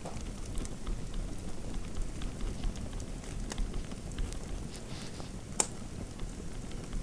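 Fire crackling in a fireplace: a low steady rumble of flames with scattered sharp pops and snaps, one louder pop a little past halfway through.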